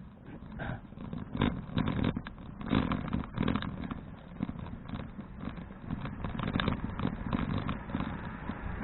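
Wind buffeting the microphone of a bicycle-mounted action camera while riding, with rattling from the bike, in irregular gusts and knocks.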